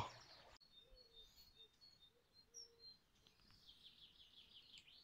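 Faint birdsong: scattered short, high chirps, then a quick trill of rapidly repeated notes near the end.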